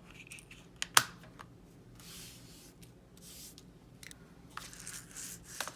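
Small plastic model parts and their packaging being handled on a table: a few sharp clicks and taps, the loudest about a second in, between soft rustles of plastic.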